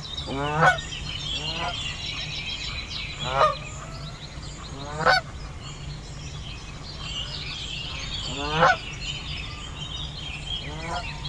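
Canada geese honking: six separate honks spread irregularly, four of them loud.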